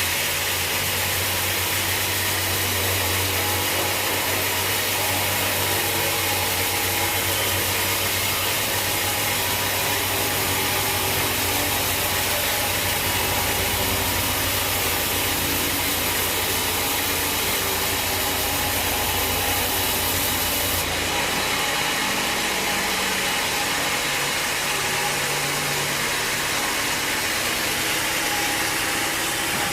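Sawmill machinery running steadily: an engine hum under a dense hiss of noise. The low hum drops away about two-thirds of the way through while the noise carries on.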